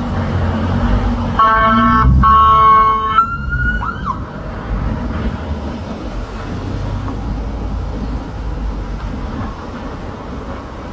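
A loud, steady horn blast about a second and a half in, held for nearly two seconds with a short break in the middle, followed by a brief gliding tone. A low rumble runs underneath.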